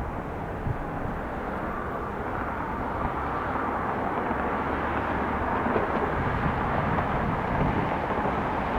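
Jet engines of a departing Boeing 737 MAX 8 at takeoff power: a steady rushing roar that grows slowly louder.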